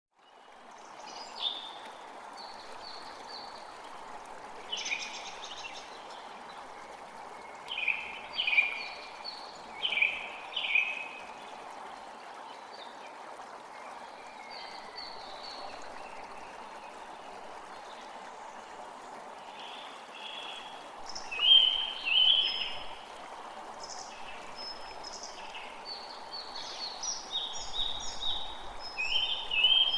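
Steady rush of a flowing stream, with songbirds singing short phrases over it at intervals. The loudest calls come about two-thirds of the way through, with a busier run of calls near the end.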